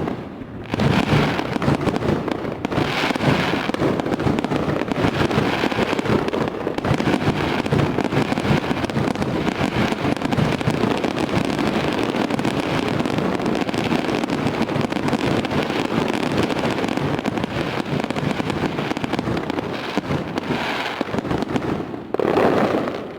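Fireworks going off in a dense, continuous barrage of bangs and crackling, falling away near the end.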